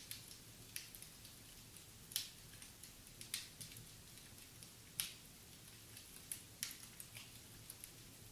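Wood fire in a fireplace crackling: irregular small snaps with a few louder pops.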